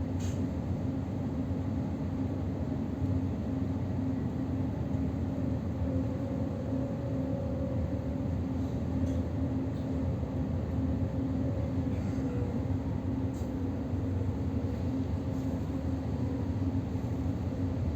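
Electric commuter train running, heard from inside the car: a steady rumble with a faint humming tone that sinks slightly in pitch midway, and a few light ticks.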